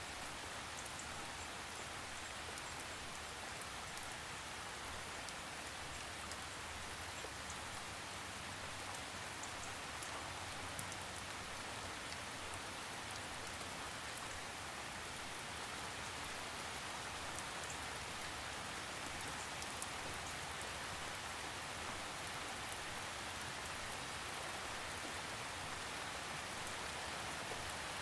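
Steady rain falling, an even hiss with scattered ticks of individual drops and no thunder.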